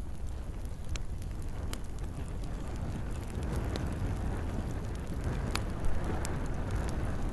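Campfire burning: a steady low rumble of flames with a few sharp crackles and pops of burning wood scattered through it.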